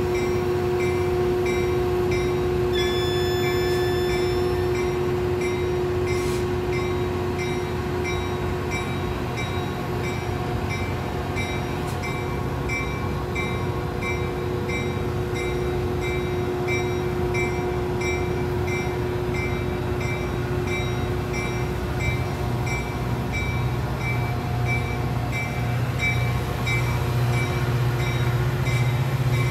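Metra commuter train, a diesel locomotive with bilevel passenger cars, rolling past with a steady engine hum and a low wheel rumble that swells near the end. A grade-crossing bell rings over it at an even, repeating beat.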